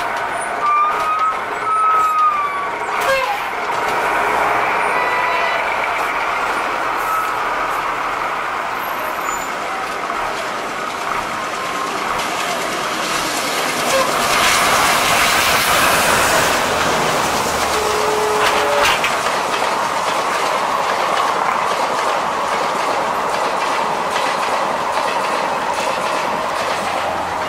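Passenger train running past on the rails: a steady rumble and rattle of wheels and coaches. It swells about halfway through as the diesel locomotive goes by. A brief thin squeal sounds early on.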